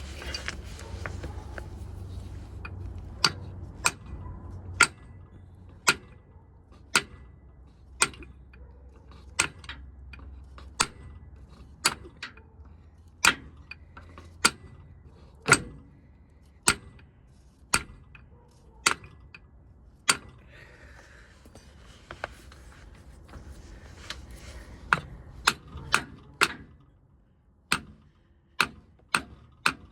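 Hammer blows, metal on metal, about one a second and quickening to two or three a second near the end, working a Ram 1500's front axle shaft loose bit by bit.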